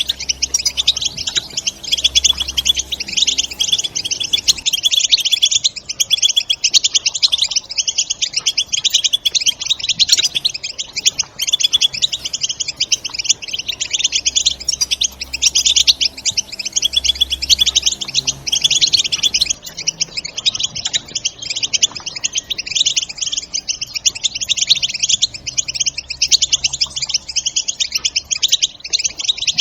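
European goldfinches twittering nonstop, a dense run of quick high chirps and trills, over soft background music.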